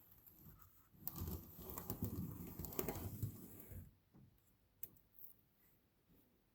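Handling noise: a dense flurry of small clicks and rustling lasting about three seconds, then a few single clicks.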